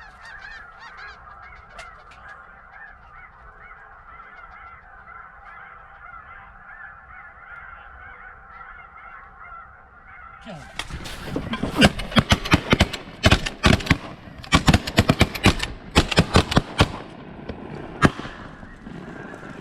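Steady chorus of snow goose calls, then about six seconds of rapid shotgun fire from several guns, with one more lone shot about a second later.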